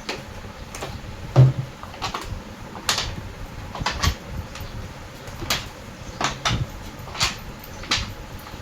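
Repeated sharp knocks and clicks from hands and tools working on a front-load washing machine's parts, about one a second, with one heavier thud about a second and a half in.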